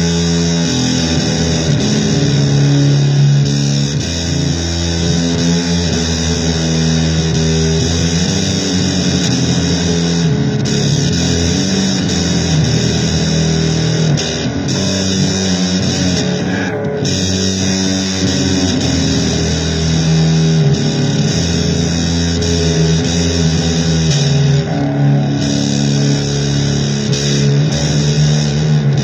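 Loud amplified electric guitar playing blues-rock, with sustained low notes that change every second or two under a dense, gritty upper haze.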